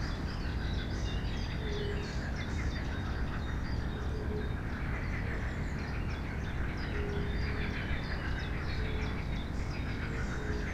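Several songbirds chirping and singing at once, many overlapping high chirps and trills, with a short lower note that recurs every second or two. A steady low rumble runs underneath.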